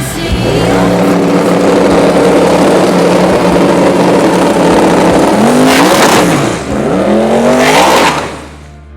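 High-performance car engine at full throttle, a loud steady note whose pitch then climbs twice in quick succession, before the sound falls away near the end.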